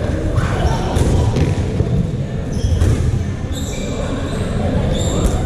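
Dodgeballs thudding and bouncing on a hall floor during play, several sharp knocks amid a continuous din of players' voices and movement.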